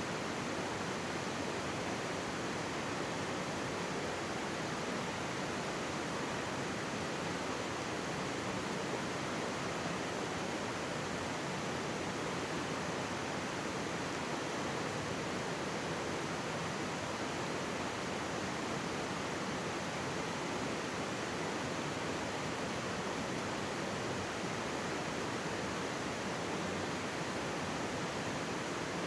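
Mountain stream running, a steady, even rush of water.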